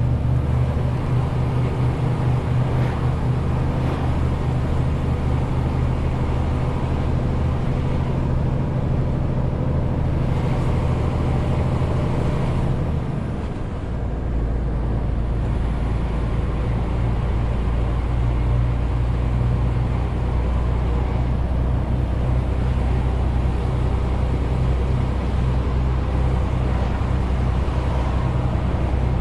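Loaded Renault T520 truck's six-cylinder diesel engine running under way. About halfway through the engine note drops to a lower pitch with a brief dip in level, as at a gear change, then it pulls on steadily.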